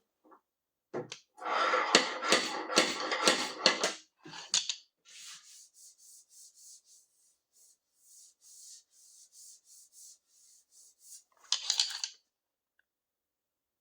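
Abrasive rubbing and scraping on a car's sheet-metal body panel: a loud scratchy stretch about a second and a half in, then faint short strokes repeating about twice a second, and a louder burst near the end.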